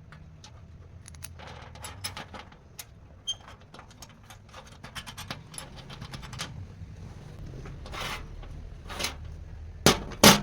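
Workshop handling noise, most likely metal tools and parts being moved and set down: a run of small clicks, clinks and scrapes, then two loud knocks about half a second apart near the end.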